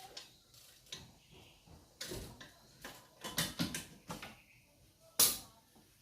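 Tools and engine parts being handled during engine assembly: a scattered run of metallic clicks and knocks, with one sharp, loud knock about five seconds in.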